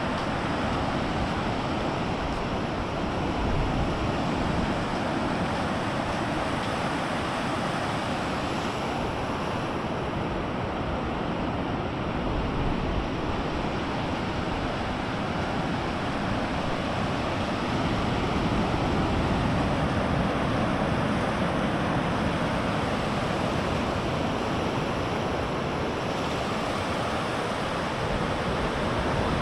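Big ocean waves breaking on a sandy beach: a steady rush of surf that swells and eases a little, with wind rumbling on the microphone.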